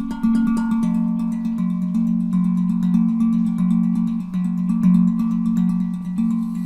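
Handrum (handpan-style steel drum) tuned to F Phrygian at 432 Hz, played with quick, steady finger strikes; low notes ring on and overlap beneath the faster taps.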